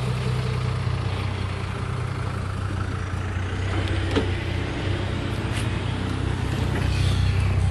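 Nissan VG30 3.0-litre V6 in a Datsun 510 idling steadily, with a single click about four seconds in.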